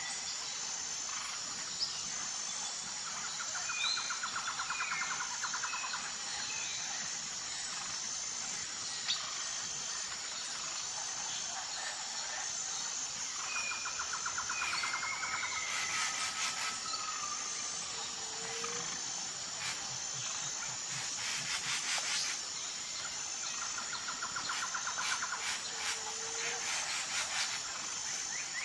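Outdoor nature ambience: a steady high insect chorus, with short bird chirps and about three rapid trills of a couple of seconds each over it. Bouts of fast clicking come in the middle.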